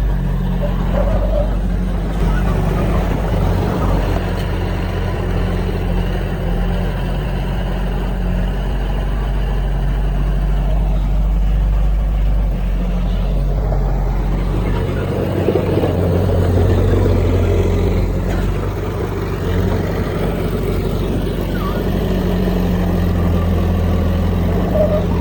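Heavy diesel earthmoving machinery running steadily, a deep engine drone whose low note shifts about fifteen seconds in as the engine load changes.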